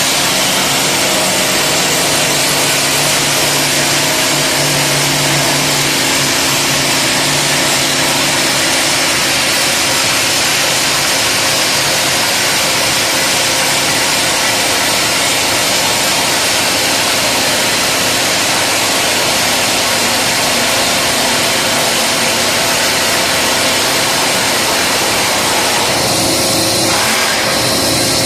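Simba S7D long-hole drill rig drilling with T-38 extension rods: a loud, steady machine din from the rock drill and its hydraulic power pack, changing briefly near the end.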